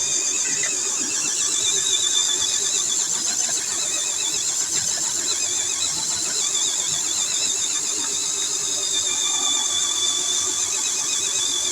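Electric motor and gears of a radio-controlled pulling truck whining steadily, with a high tone and a lower tone that wavers in pitch.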